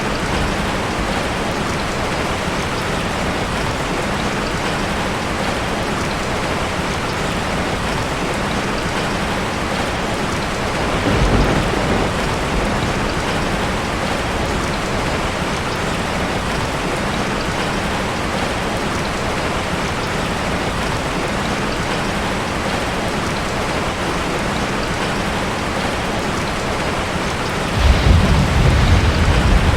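Heavy rain drumming steadily on a metal roof, with a short roll of thunder about 11 seconds in and a louder, deeper rumble of thunder starting near the end.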